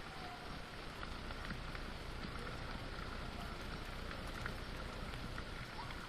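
Steady rain falling, with scattered individual drops ticking and a few faint short chirps now and then.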